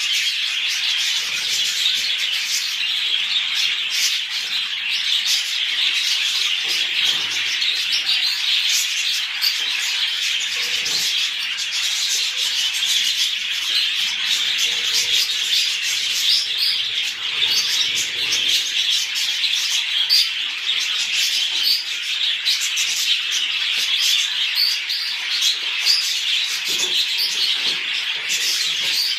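A flock of budgerigars chattering and chirping without a break, many short high calls overlapping.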